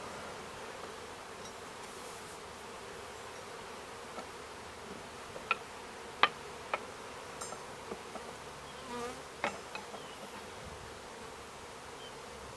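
Honeybee colony buzzing steadily around an opened hive. Several sharp clicks and knocks come in the middle, the loudest sounds.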